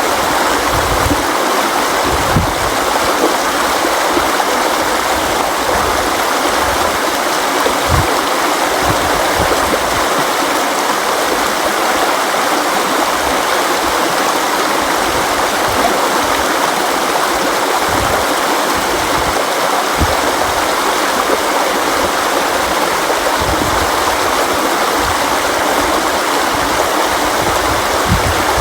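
River water flowing and rushing steadily, with irregular low thumps of water surging beneath the rush.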